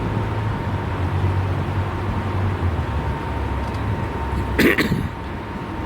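Tour boat's motor running with a steady low hum, a faint steady tone above it. About four and a half seconds in there is a short sharp sound, like a cough.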